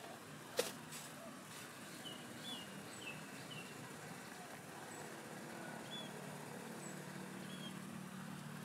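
A small bird chirping, short curved notes repeated a few times, over a steady low background hum. A sharp click about half a second in is the loudest sound.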